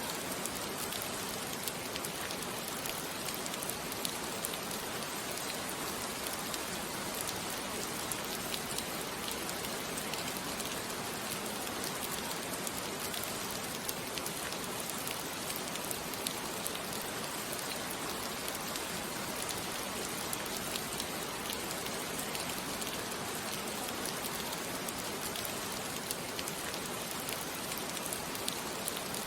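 Steady rain falling on a surface, an even hiss flecked with small drop ticks.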